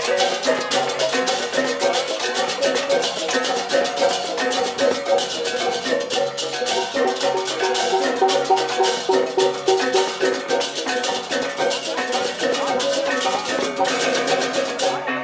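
Balinese gamelan music: rapid, dense metallic cymbal strikes over ringing pitched bronze tones.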